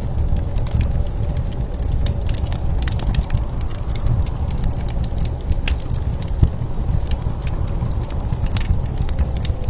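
Wood fire crackling, with many small irregular pops, over a steady low rumble of blizzard wind.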